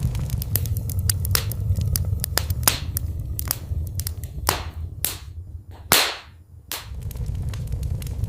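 Wood fire crackling, with many sharp pops and snaps over a steady low rumble of the burning fire. A little past the middle the rumble drops away for a couple of seconds while a few louder single pops ring out, the loudest about six seconds in.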